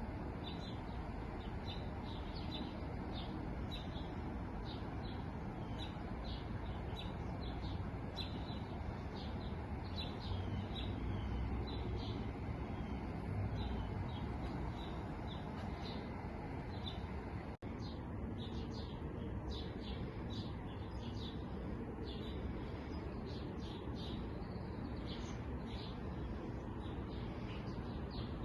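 Many small songbirds chirping continuously, a dense chatter of short, high chirps over a steady low background hiss. The whole sound cuts out for an instant about two-thirds of the way through.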